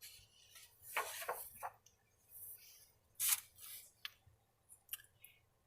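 Faint rustles and a few small clicks from a picture book being handled: soft rustles about a second in and around the middle, tiny clicks near the end.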